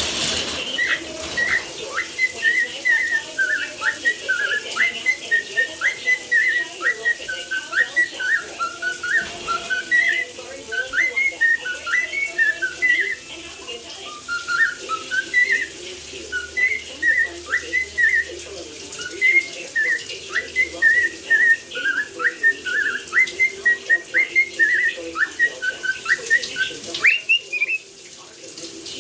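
Cockatiel giving a long run of short, quick whistled chirps, several a second, in the style of budgie chatter, with a short pause midway. Shower water hisses faintly behind.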